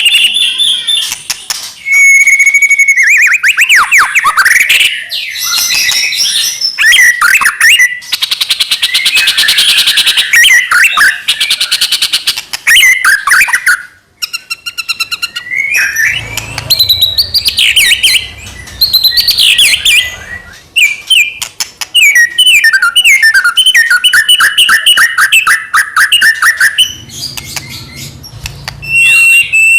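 White-rumped shama (murai batu) singing a loud, continuous, varied song of rapid trills, whistles and sweeping notes, with a short break about halfway through.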